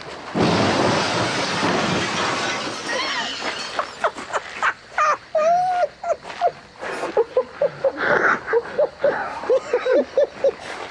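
A heavy Volvo crashing into a wooden summer house: a loud crash of breaking and shattering lasting about two seconds. After it come repeated short, shrill bursts of laughter.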